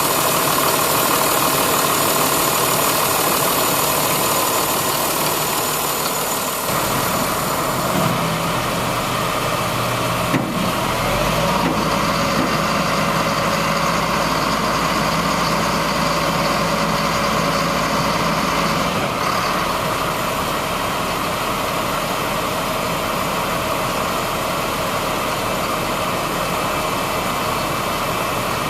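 2001 Ford flatbed dump truck's engine idling steadily; its tone shifts about seven seconds in, and a deeper hum joins it from about eleven to nineteen seconds in, with a couple of small knocks along the way.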